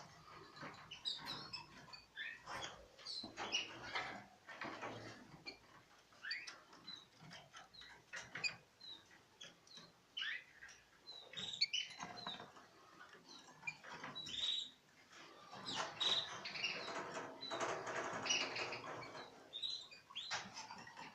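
Young pet birds chirping in short, high calls amid rustling and wing flapping, busiest about three-quarters of the way through.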